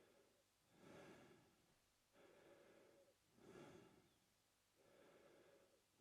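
Faint, slow mouth breathing by a man: about two and a half even breaths, each in and out, with a louder, airier stroke every two and a half seconds or so, alternating with a quieter, softer one.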